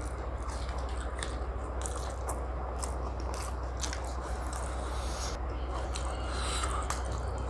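A person chewing food close to the microphone: wet mouth sounds with scattered sharp crunches and clicks, over a steady low hum.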